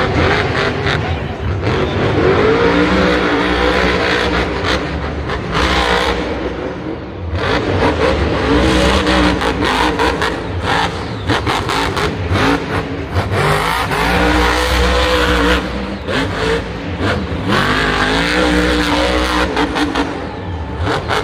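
Truck engine running under load, its pitch rising and dropping several times as it accelerates.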